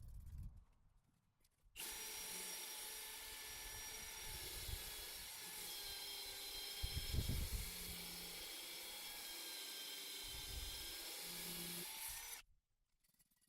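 Power drill running at low speed with a diamond core bit grinding into brick: a steady grinding with a motor whine that starts about two seconds in, runs for about ten seconds and stops abruptly near the end.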